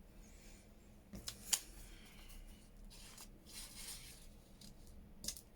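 Faint paper handling at a crafting table: a few light snips and clicks, with a soft paper rustle partway through.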